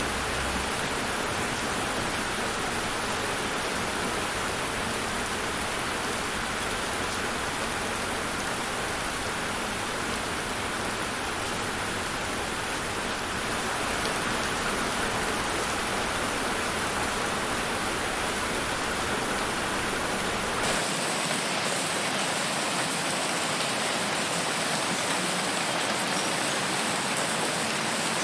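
Steady rain falling, an even hiss of drops. About 21 s in, the sound changes abruptly as the low rumble drops away, as at a cut to another rain recording.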